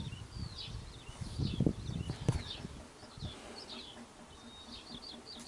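Small birds chirping in short repeated notes, with a few low knocks and handling bumps in the first couple of seconds.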